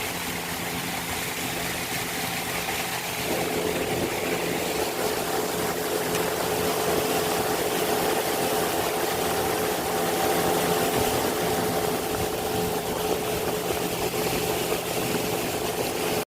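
A motorboat's engine running steadily over the hiss of water; about three seconds in its note rises and it gets louder, as the boat picks up speed.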